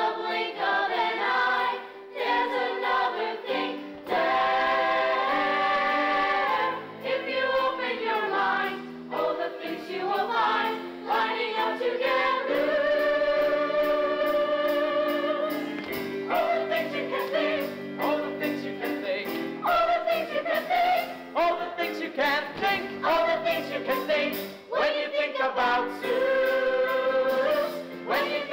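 A stage cast singing a musical-theatre finale together in chorus, with many long held notes.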